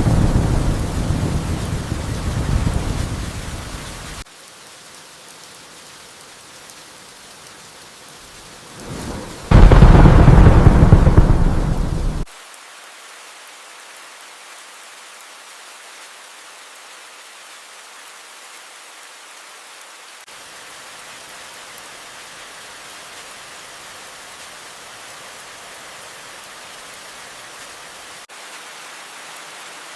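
Steady rainfall with two rolls of thunder: one in the first four seconds, and a louder one about ten seconds in. Both cut off suddenly, leaving only the rain hiss.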